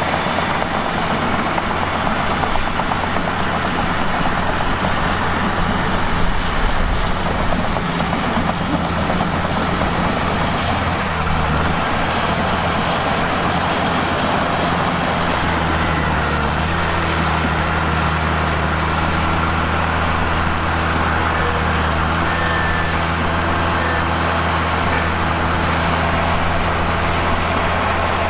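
Mitsubishi bulldozer's diesel engine running steadily, its note shifting about a third of the way through and again a little past halfway.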